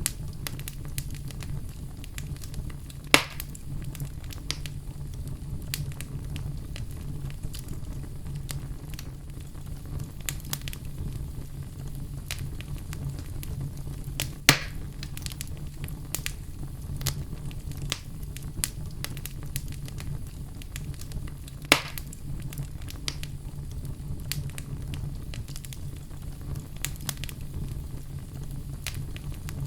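Wood fire in a fireplace crackling, with a steady low rumble under many small snaps. Three louder pops stand out, about three seconds in, about halfway through, and about two-thirds of the way through.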